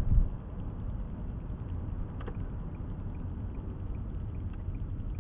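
Car driving, with a steady low rumble of road and engine noise heard inside the cabin through a dash camera's microphone, and a short thump right at the start.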